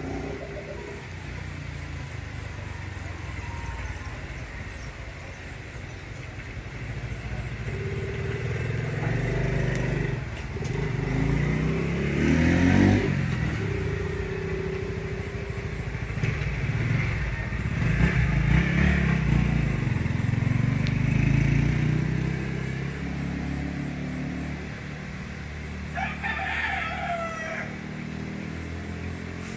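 Motor vehicles going past on a road, with a steady low rumble that swells as each one passes, the loudest about 13 seconds in and another around 18 to 21 seconds. A rooster crows once, briefly, near the end.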